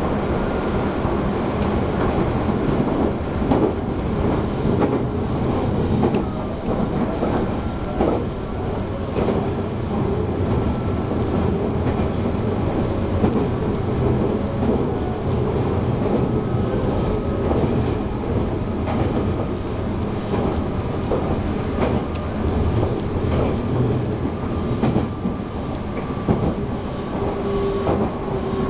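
Inside a Meitetsu 3150 series electric train running at speed: a steady rumble of wheels and running gear, with irregular clicks as the wheels cross rail joints. Near the end a faint motor whine falls in pitch as the train begins slowing for its next stop.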